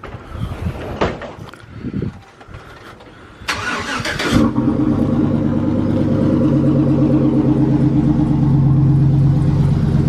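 A few knocks, then a pickup truck's engine cranks briefly and starts, settling into a steady idle.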